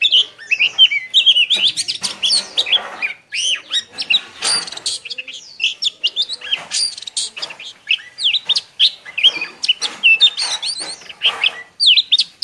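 Caged songbird singing a rapid, unbroken string of varied chirps and warbling notes, the fast continuous song that Vietnamese keepers call "líu".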